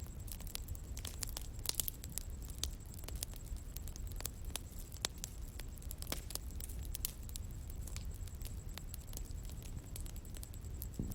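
Outdoor wood bonfire crackling: irregular sharp pops and snaps, several a second, over a low steady rumble of the flames.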